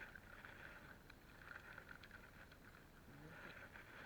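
Near silence: faint steady background hiss with a few soft ticks, and a faint distant voice briefly near the end.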